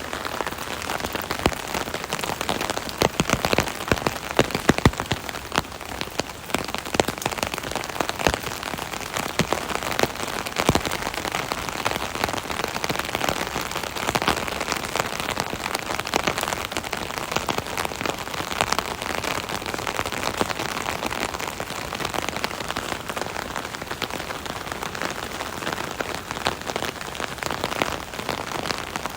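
Rain pattering steadily on an umbrella canopy overhead, a dense patter of many individual drop ticks.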